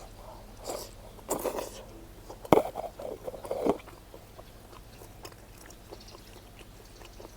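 A person eating smoked pork close to the microphone: a run of chewing and biting sounds over the first four seconds, with one sharp click about two and a half seconds in, then quieter, sparser chewing.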